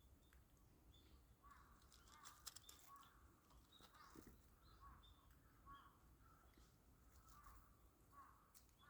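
Faint bird calls repeating every half second to a second, with a few soft clicks.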